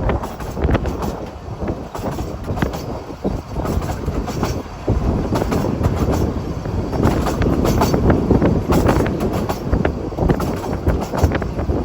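Narrow-gauge train running on the rails, with steady rumbling and many short clicks of wheels over rail joints. It gets louder about five seconds in.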